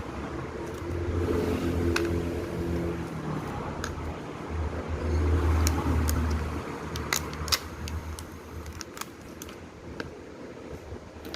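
A low droning hum in two spells of a couple of seconds each, followed by a run of small sharp clicks and taps.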